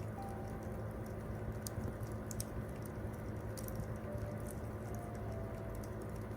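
Wood campfire crackling, with irregular sharp pops and snaps over a steady low rumble of the flames. A few soft, held piano notes sound faintly underneath.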